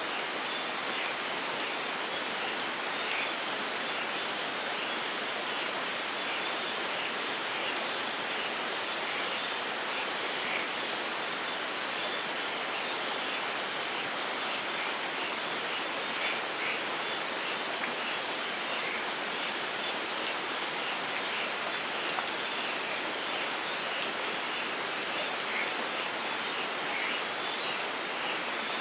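Steady rain falling: an even hiss with scattered small drop impacts.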